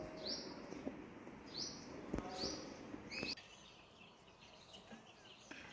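A small bird chirping: short high chirps about a second apart, which stop about three seconds in.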